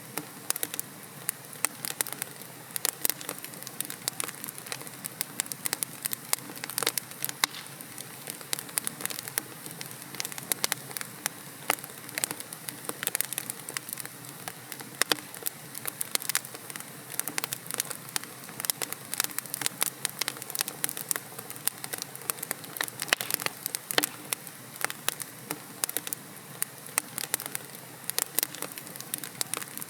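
Wood logs burning in a fireplace, crackling with many sharp, irregular pops over a steady hiss.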